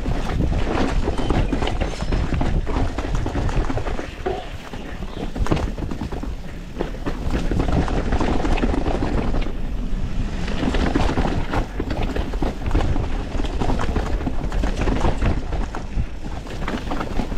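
YT Industries Capra 4 mountain bike descending a rough bike-park trail: tyres rumbling over dirt and rocks, with a steady clatter of knocks and rattles from the bike as it takes the bumps. The noise eases for a few seconds about four seconds in, then picks up again.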